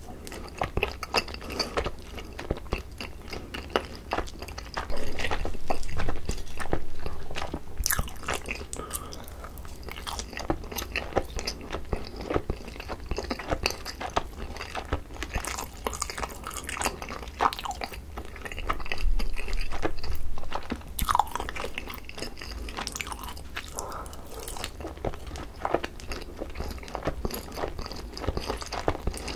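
Close-miked chewing of sticky, sauce-glazed boneless grilled chicken, a steady run of wet smacks and small crunches. The chewing grows louder twice for a couple of seconds, about five and nineteen seconds in.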